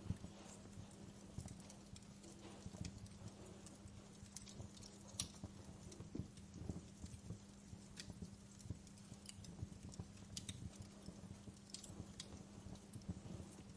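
Wood fire burning in a fireplace, crackling with irregular small snaps and pops, a few sharper pops standing out, over a steady low hum.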